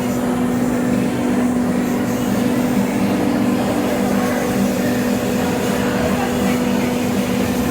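Steady, loud machine hum with a constant low droning tone that never changes.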